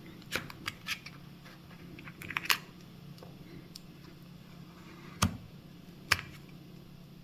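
Plastic pry tool clicking and scraping against a Nintendo Switch's adhesive-held battery as it is levered up, with a few sharp, scattered clicks; the battery is stuck down firmly.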